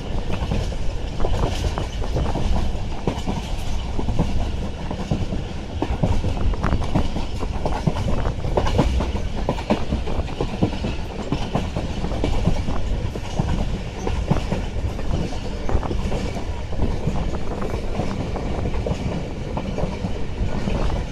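Passenger train running at speed, heard from aboard: a dense clatter of wheels on the rails over a steady low rumble.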